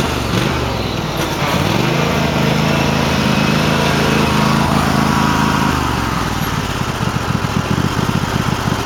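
Cub Cadet garden tractor engine running at high revs, its pitch shifting in the first two seconds, then dropping about six seconds in to a choppy, uneven idle. The tractor is running poorly, for reasons the owner doesn't know.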